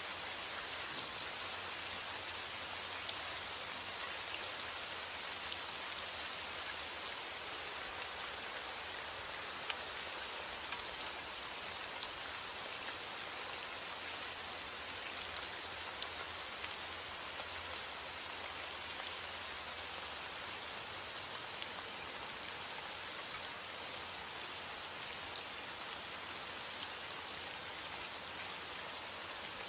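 Heavy rain falling steadily: a dense, even hiss with scattered sharper ticks of individual drops.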